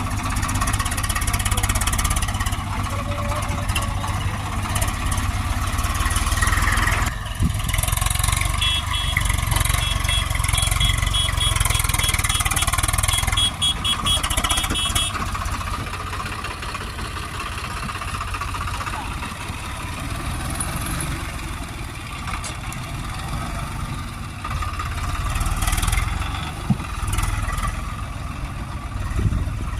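Diesel engine of the tractor and backhoe loading the trolley, running steadily with a constant low rumble. A fast run of high, evenly spaced ticks is heard for several seconds in the middle.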